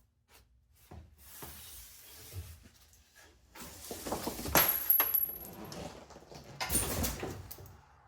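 Clattering and knocking of junk being moved and set down, with a brief metallic ring about halfway through.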